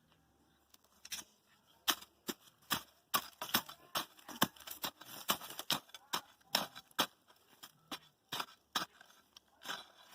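Wood bonfire crackling, with irregular sharp pops and snaps several times a second.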